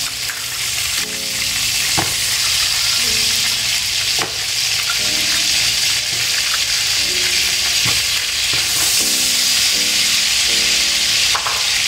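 Crabs frying in hot oil in a skillet: a loud, steady sizzle, broken by a few sharp clicks.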